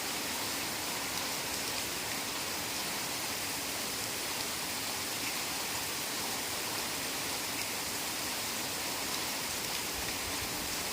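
Heavy rain falling steadily in a forest, a dense even hiss.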